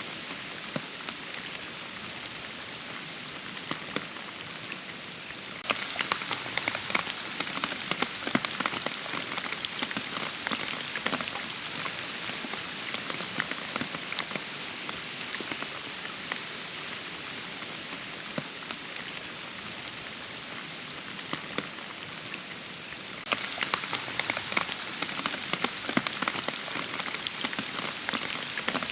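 Steady rain with many close drops tapping sharply. It grows heavier and louder about six seconds in, eases off partway through, and picks up again near the end.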